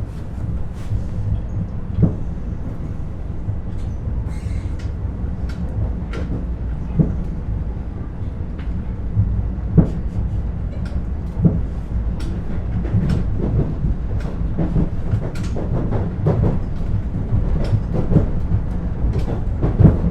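Inside a moving Ivolga electric commuter train: a steady low running rumble, with scattered clicks and knocks from the wheels and car body.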